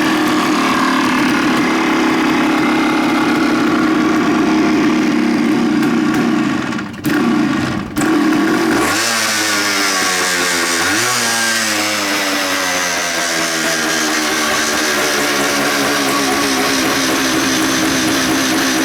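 Suzuki TS400 Hustler's single-cylinder two-stroke engine running. About seven seconds in the sound drops out briefly twice, then the engine pitch swings down and up for a few seconds before settling into a steady idle.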